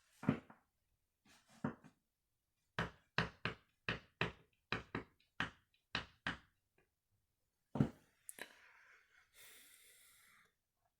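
Candy front-loading washing machine's drum turning slowly after its final spin, giving a run of short knocks, often two or three a second, followed by a brief faint hiss near the end.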